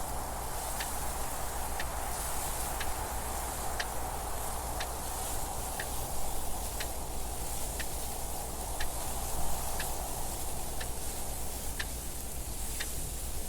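Clock ticking at about one tick a second, each tick short and crisp, over a steady rushing wind noise with a low rumble underneath.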